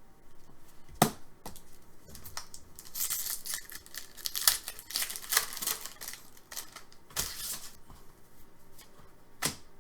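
Trading cards and their packaging being handled: bursts of rustling, sliding and crinkling, with a sharp click about a second in and another near the end.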